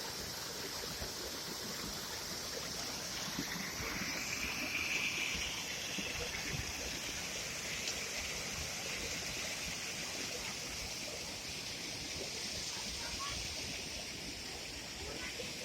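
Stream water rushing steadily, a continuous hiss that grows a little brighter in the middle.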